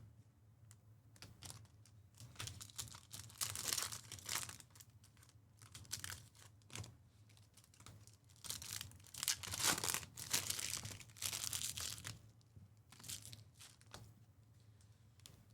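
Plastic and foil card-pack wrappers being torn open and crinkled in irregular bursts, as trading-card packs are ripped.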